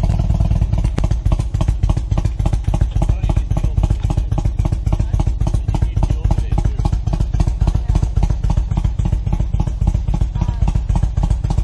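Motorcycle engine idling loudly with a fast, even pulsing beat.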